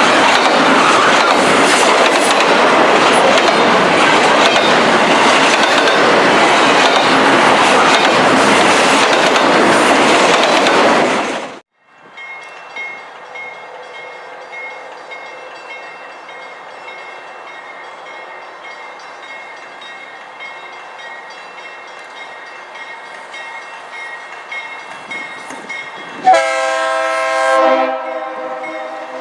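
A train passing close with a loud, steady rush of wheel and rail noise, cut off abruptly about twelve seconds in. A quieter steady background follows, until a train horn sounds loudly for about a second and a half near the end.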